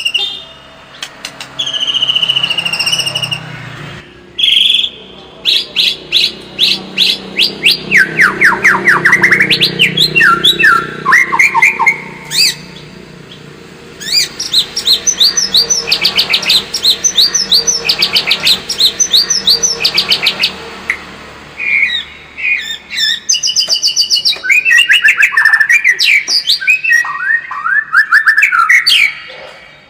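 White-rumped shama singing a loud, varied song: phrases of rapid repeated notes, fast falling sweeps and trills, separated by short pauses.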